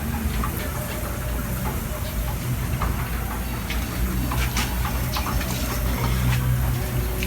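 Garlic frying in hot oil in a pan, a steady sizzle with scattered crackles and pops, over a low steady rumble.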